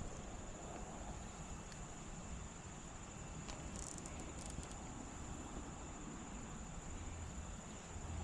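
Faint steady high-pitched insect drone over quiet outdoor background, with a few light clicks about halfway through.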